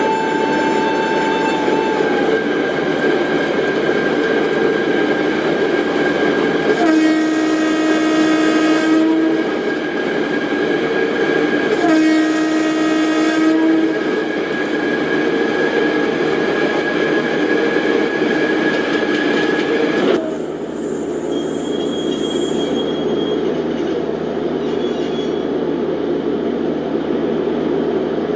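Indian Railways express train hauled by a WAP-7 electric locomotive, running with steady rail noise and a high steady whine. The locomotive's horn sounds twice, each blast about two seconds long, about five seconds apart. About two-thirds of the way through, the whine stops and the running noise turns duller.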